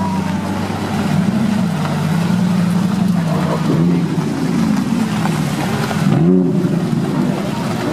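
Sports-car engines running as supercars drive slowly past one after another, with several short revs that rise and fall in pitch, the sharpest about six seconds in.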